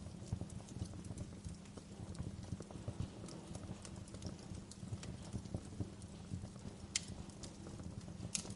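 Wood fire crackling in a fireplace: many small snaps over a steady low rumble, with two sharper pops near the end.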